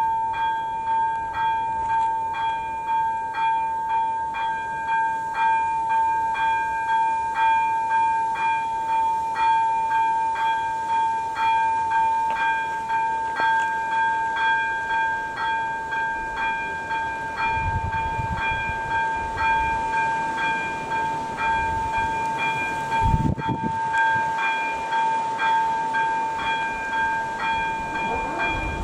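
AŽD ZV-02 electronic level-crossing bell ringing, its metallic tone struck over and over at an even pace, warning of an approaching train. A brief low thump comes about two-thirds of the way in.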